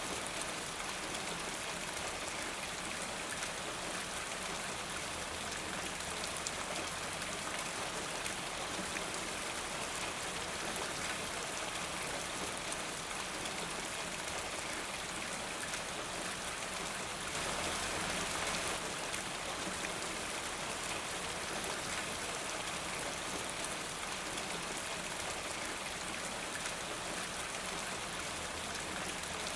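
Steady rain falling, an even hiss of drops that swells slightly a little past the middle.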